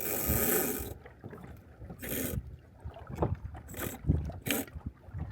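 Small sailboat under way: water washing against the hull in a strong surge at the start and several shorter surges after it, over steady wind rumble on the microphone.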